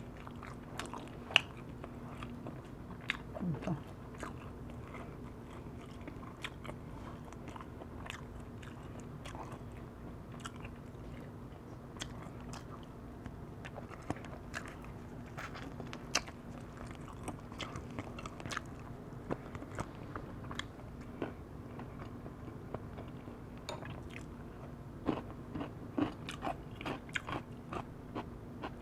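Close-miked eating of firewood-roasted chicken: irregular small crunches and clicks of biting and chewing, with one sharper, louder bite about a second in.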